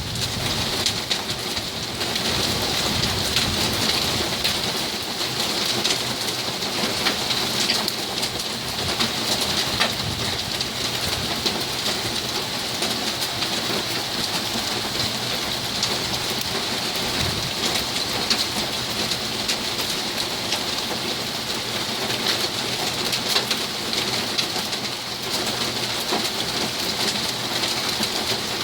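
Heavy rain pouring steadily, with many sharp ticks of drops striking hard surfaces.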